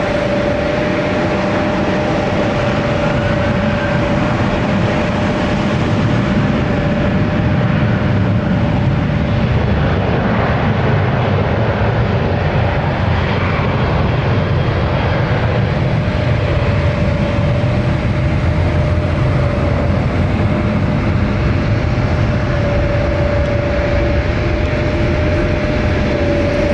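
Boeing 787-10's turbofan jet engines running, a loud steady rush with a constant whine that fades out around the middle and returns in the last few seconds.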